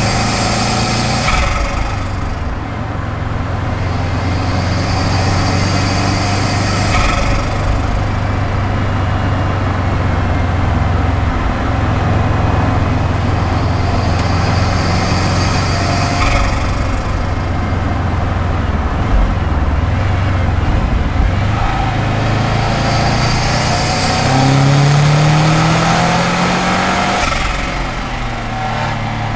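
Subaru Impreza WRX GC8's turbocharged flat-four engine, breathing through an STI exhaust, running under way and rising in pitch as it accelerates near the end. About four times, a brief rush of high-pitched noise cuts in, in keeping with turbo flutter on lift-off, since the car has no blow-off valve.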